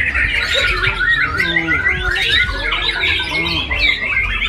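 A chorus of many caged songbirds singing over one another: rapid, overlapping whistles, trills and chirps with no break, over a low rumble.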